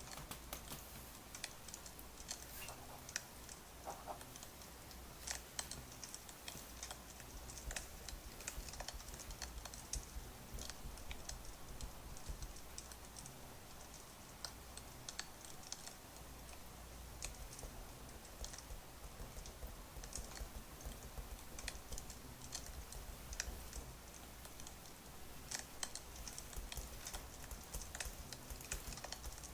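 Wood fire crackling, with irregular small pops and snaps over a soft steady hiss.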